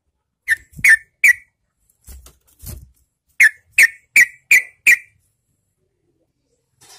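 Yellow-vented bulbul giving short, sharp chirps: three notes, a couple of fainter ones, then a quick run of five, with silence between the groups.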